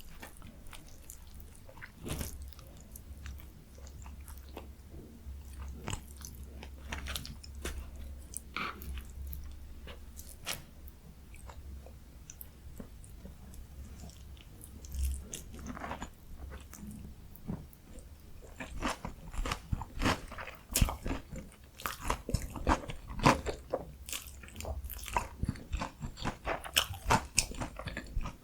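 Close-miked eating sounds: biting into and chewing a crispy breaded Korean pork cutlet topped with kimchi and cheese, the crunches sparse at first and then coming rapidly and louder in steady chewing near the end.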